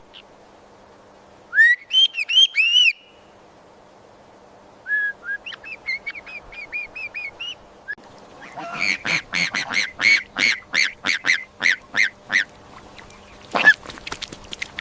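A bird calling with short, high honks in groups: a few loud ones, then a softer run, then a fast run of about four calls a second lasting several seconds.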